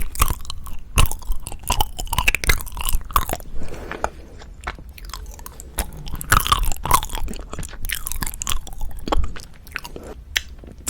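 Close-miked chewing of wagashi, with many sharp mouth clicks and bites. There is a quieter stretch about four seconds in, then the chewing grows louder again.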